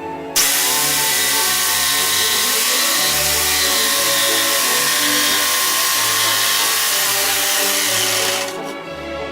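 A power tool running steadily on wood for about eight seconds, starting abruptly and then cutting off, over background classical music.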